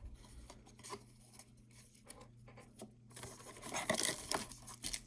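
Trading cards handled with light taps and shuffles, then a plastic card-pack wrapper crinkling and tearing from about three seconds in as the next pack is opened.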